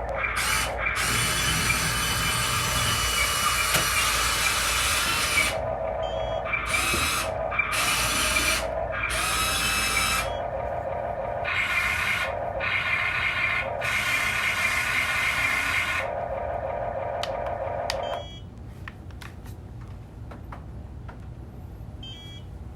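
Small electric motors and gear drives of radio-controlled excavators, dump trucks and a loader, whining in repeated short bursts of a second or a few seconds as the machines are worked. A lower steady hum stops about three-quarters of the way through, leaving only faint clicks.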